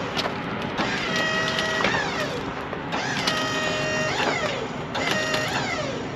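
Wood-Mizer sawmill's hydraulics whining in three spells of a second or so, each a steady whine that bends in pitch as it ends, over the steady running of the mill's engine.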